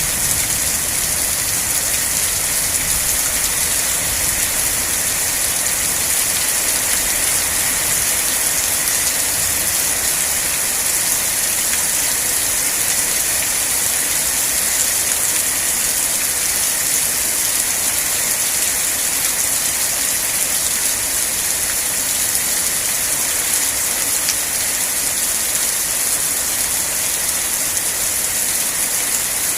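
Steady, even rain falling on surfaces, a continuous hiss with no pauses or changes.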